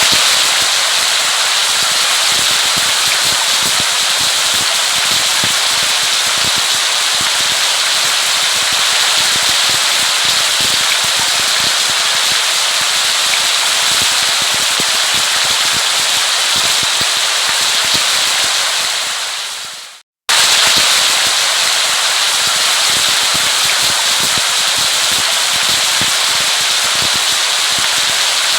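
Steady rain, a dense patter of drops hissing and crackling at a constant loud level. About twenty seconds in it fades away, stops for a split second and cuts straight back in, as at the seam of a looped recording.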